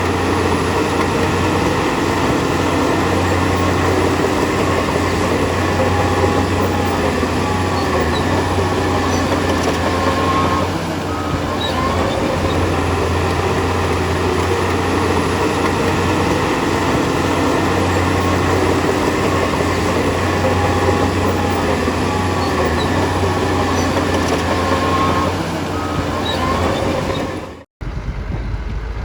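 Crawler bulldozer working: diesel engine running under load with steel tracks clanking and squealing steadily. The sound cuts off abruptly near the end and a quieter engine sound follows.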